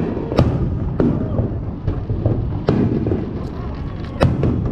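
Fireworks display: aerial shells bursting in a string of sharp bangs at irregular intervals, about five strong ones over a continuous low rumble.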